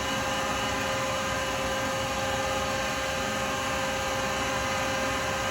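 Wood lathe running steadily with the acrylic pen blank spinning, a constant hum with a steady whine above it.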